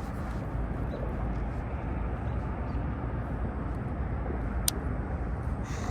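Steady low rumbling outdoor noise, with one sharp click about four and a half seconds in.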